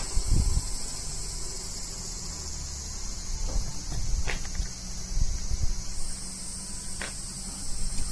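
A steady, high-pitched chorus of cicadas that shifts slightly up in pitch about six seconds in, with low thumps and knocks underneath.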